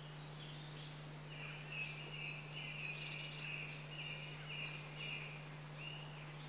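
A songbird singing a run of short, even notes, about two a second, with a few higher notes among them, over a steady low hum.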